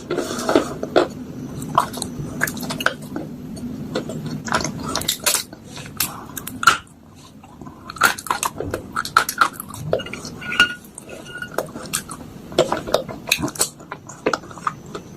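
A metal spoon crunching soaked clay pot and slate pieces in a bowl: irregular crisp crunches and clinks against the bowl, with a short pause about halfway through.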